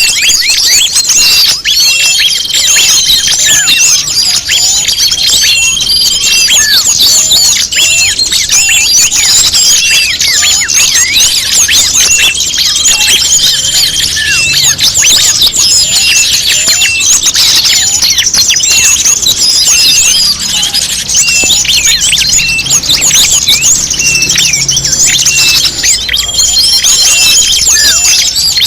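Bird-lure recording of many small songbirds calling at once: a loud, dense, unbroken mass of rapid high chirps and trills, with now and then a short held whistle. It is played to draw small birds in.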